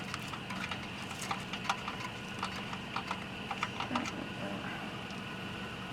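Irregular small clicks and taps, several a second and thinning out after about four seconds, from hands handling the portable tire inflator's air hose and connector at the tire valve. A faint steady hum sits underneath.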